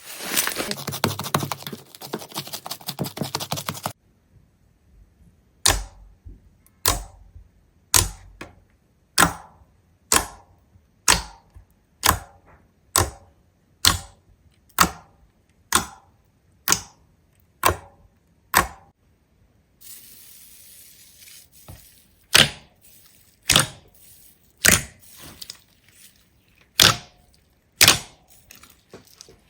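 A few seconds of dense, rapid crackling clatter, then single sharp clicks or knocks repeating at about one a second, each dying away quickly.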